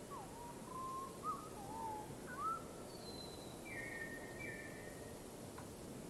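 Bird whistling: a run of short gliding whistles in the first two and a half seconds, then two higher, level notes a little later, over a steady hiss.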